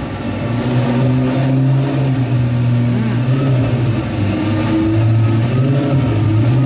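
Loud car engine idling with a deep, steady note, its pitch dipping slightly a few times; described as insanely loud.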